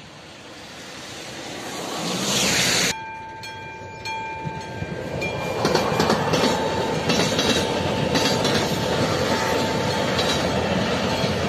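Trains passing a level crossing: an electric locomotive hauling passenger coaches and a rake of open freight wagons, their wheels clattering over the rail joints. The clatter comes in loud about five seconds in and stays loud. Before it, a rising rush of noise cuts off suddenly, and a steady high warning tone follows.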